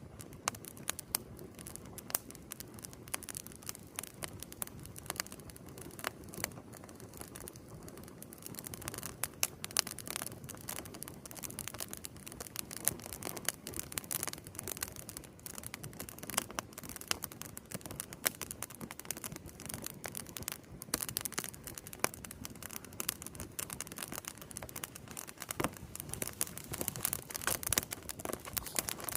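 Wood campfire crackling: a steady low rush under frequent, irregular sharp pops and snaps.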